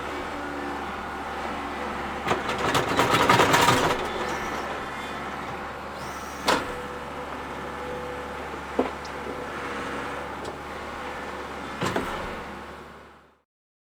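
Bobcat skid-steer loader running steadily. It swells louder for a second or two about three seconds in, and three sharp knocks come later. The sound fades out near the end.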